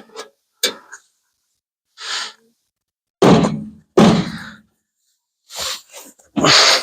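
A series of separate knocks, each dying away within about half a second, the two heaviest about three and four seconds in: hammer blows on a wooden body block held against the truck's sheet-metal front panel while the dent is worked out.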